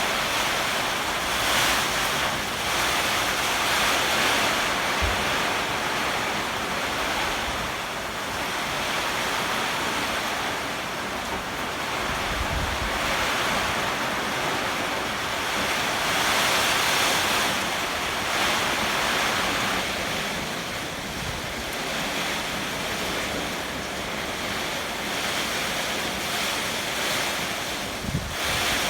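Heavy rain and strong typhoon wind: a steady rushing noise that swells and eases in gusts every few seconds, with a few brief low thumps.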